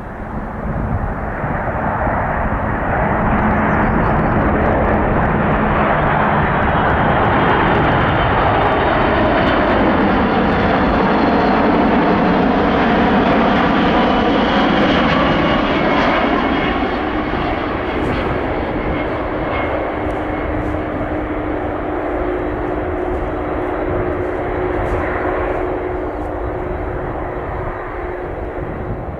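Boeing C-17A Globemaster III's four turbofan jet engines roaring as the airlifter passes; the roar swells over the first seconds, peaks about halfway with a sweeping shift in tone, then fades to a lower steady rumble.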